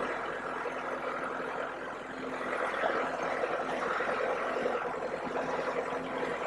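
Tractor engine running steadily at low RPM.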